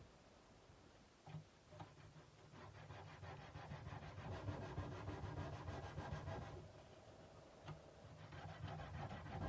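Sandpaper being rubbed back and forth by hand along a kukri's steel blade, a quick, steady scraping. It stops for about a second a little past the middle, then starts again.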